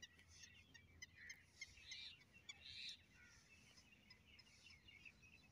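Faint birds calling in the open: a scatter of short, high chirps, with two slightly louder calls about two and three seconds in.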